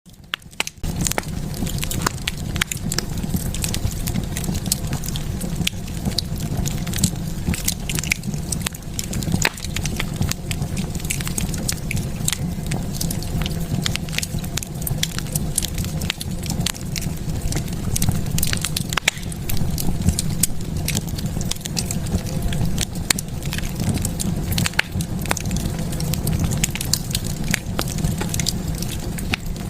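Wood fire in a fireplace burning steadily, with irregular sharp crackles and pops over a low rumble of flame; it fades in within the first second.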